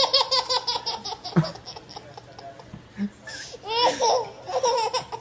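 High-pitched laughter in quick, repeated 'ha' pulses, in two bouts: one at the start and another about four seconds in.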